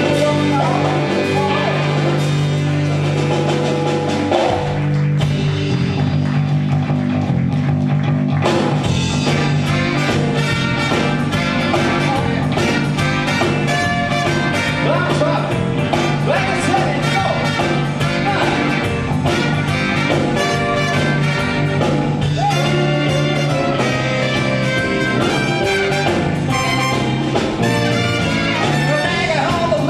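Live band playing: held low notes at first, then the drums and full band come in about nine seconds in and play on at a steady level.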